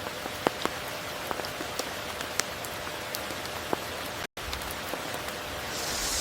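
Steady rain falling, with many separate drops ticking sharply on a surface. The sound cuts out completely for a moment about four seconds in. A short swell of high hiss comes right at the end.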